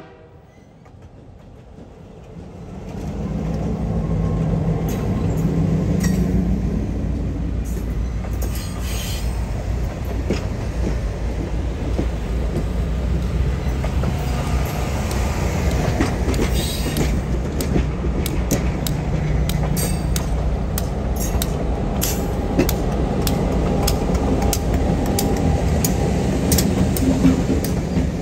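Diesel-hauled passenger train passing close by: the locomotive's engine rumble comes up about three seconds in, then the coaches roll past steadily, their wheels clicking over the rail joints.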